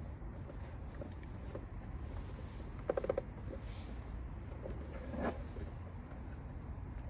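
Small hand-work noises while fitting a truck door trim panel: a quick cluster of clicks about three seconds in, then a short rattling scrape a little after five seconds, over a steady low hum.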